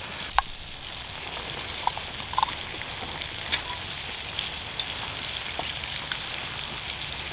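Hot breakfast food sizzling in a metal camping pot, a steady hiss, with a few light clicks of a spoon against a glass jar as cockles are spooned out.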